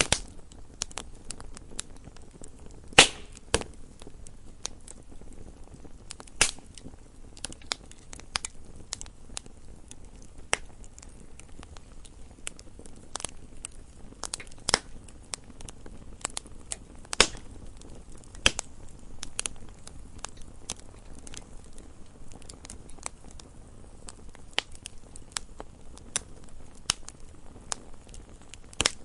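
Wood fire burning in a fireplace: irregular crackling and sharp pops over a low steady rumble of the flames, with a few louder snaps about 3, 6.5, 15 and 17 seconds in.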